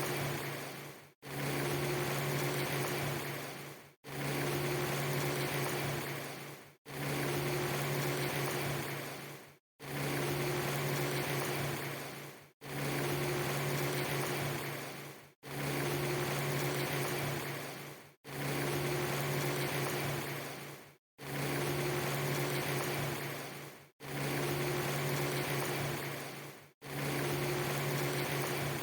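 A steady low hum over an even hiss: a clip of about three seconds played over and over, dropping out to silence for a moment between repeats.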